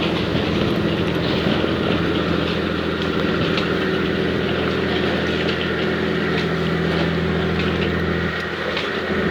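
Passenger ferry's engines running steadily with a deep, even hum, mixed with rushing water and wind noise as the boat travels. The sound dips briefly near the end.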